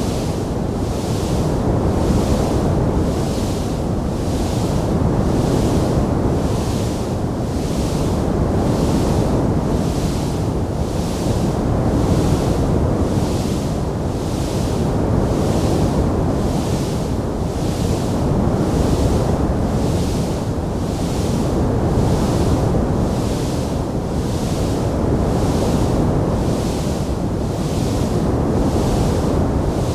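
Fire in a fireplace: a steady low rushing roar with a hiss that swells and fades about once a second, without distinct crackles or pops.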